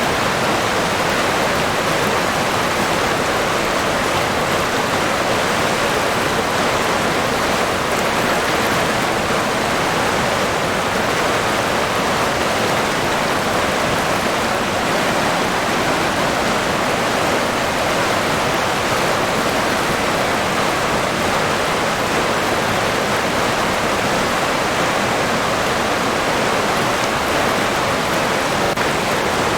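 River water rushing steadily, an even flowing wash with no breaks or changes.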